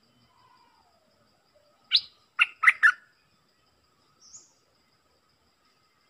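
Songbird calls: a faint falling whistle, then four loud, sharp notes in quick succession about two seconds in, and a short high note a little later.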